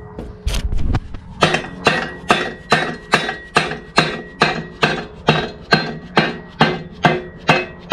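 A hammer beating on a stuck metal part in a steady run of blows, about two a second, each blow ringing briefly. The part is being knocked loose because it won't come off.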